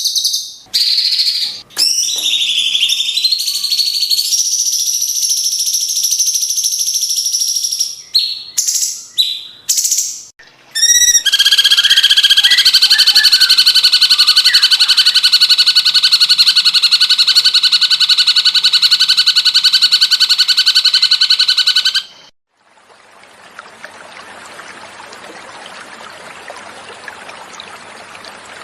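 Recorded cucak cungkok song: a run of sharp, clear calls with short breaks, then a long, loud, rapid trill lasting about ten seconds that cuts off suddenly. A quieter gentle sound of flowing water follows for the last several seconds.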